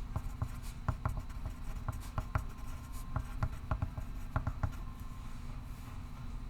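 Pencil scratching on paper in short, irregular strokes over a steady low hum. The strokes stop a little under five seconds in.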